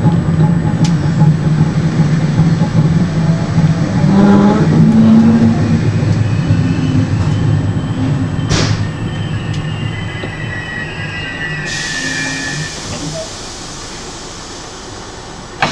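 Inside an Intercity Notte passenger train slowing as it arrives at a station: the rolling rumble of the wheels on the rails dies away steadily. There is a sharp knock about halfway, then a high squeal, and a steady hiss begins near the end.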